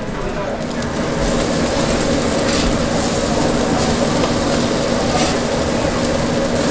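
Mung bean pancakes (bindaetteok) sizzling in oil on a flat griddle: a steady frying hiss that grows a little louder about a second in, with a steady low hum beneath it.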